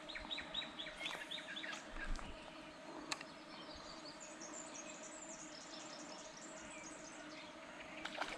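Wild birds calling: a quick run of repeated falling notes in the first second or so, then thinner, higher chirps later on, all faint over a low steady hum.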